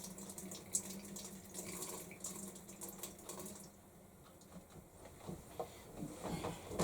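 Water from a washing machine's disconnected inlet hose being poured out and splashing into a sink drain. The splashing dies away a little past halfway, leaving a few light knocks.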